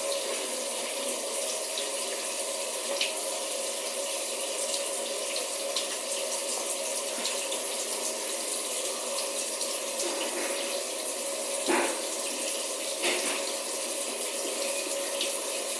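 Kitchen sink faucet running steadily into the sink, with a short knock about twelve seconds in.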